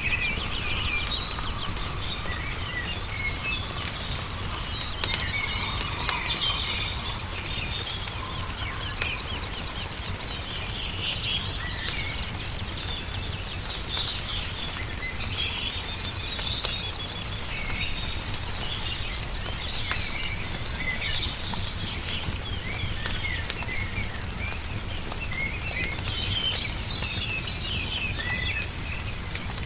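Small songbirds chirping and twittering over a wood fire crackling with sharp, scattered pops, above a steady low rumble.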